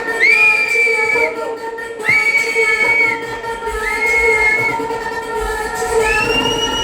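Trance dance music playing loud in a quiet breakdown: a held synth chord under four long, high, whistle-like notes, each sliding up as it starts and down as it ends. The last note is a little higher and longer than the others.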